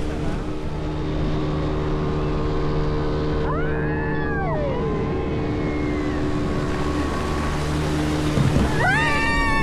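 Towing motorboat engine running steadily under wind and water noise, with two long high shrieks from the banana-boat riders, one about three and a half seconds in and one near the end.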